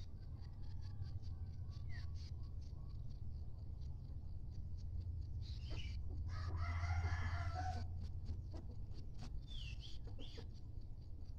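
A village chicken rooster crowing once, about six seconds in, with a few short higher chicken calls near the end, over a steady low hum.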